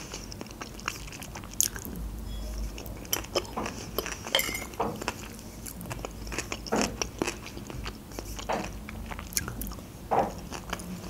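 Close-up eating sounds: a mouthful of salad being bitten and chewed, with soft crunches and wet mouth clicks coming irregularly.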